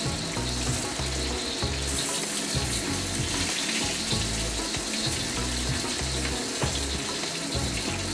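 Pork meatballs sizzling steadily in hot oil and pork fat in a wok as they brown, being turned with tongs. A lo-fi music track with a repeating bass line plays underneath.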